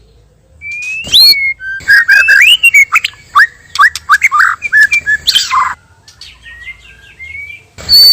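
White-rumped shama (murai batu) singing: after a brief pause, loud clear whistles, one sweeping upward, then a rapid run of varied short whistled notes, a softer passage, and loud song again near the end.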